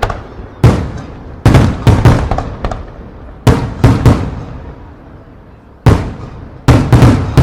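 Aerial firework shells bursting in an irregular rapid series: about ten sharp, loud bangs, each followed by a rumbling echo that dies away over a second or so.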